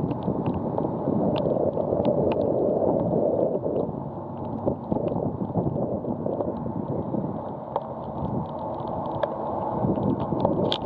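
Gusty wind buffeting the microphone in a rough, continuous rumble, with scattered small clicks.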